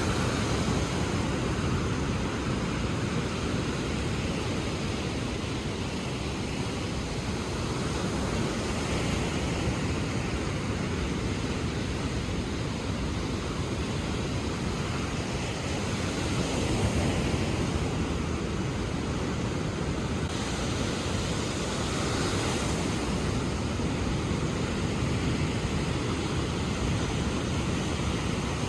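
Ocean surf: a steady rush of waves washing in, swelling a little every several seconds.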